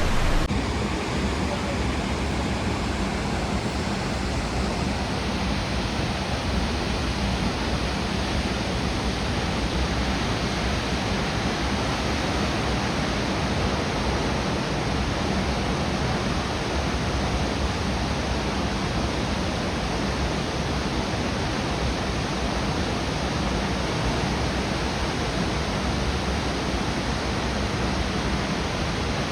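Steady roar of falling water from a waterfall, a constant rushing with no breaks.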